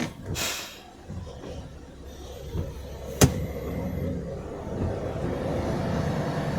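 A vehicle rumbling steadily, the low rumble building about two seconds in, with one sharp knock a little after three seconds and a short hiss near the start.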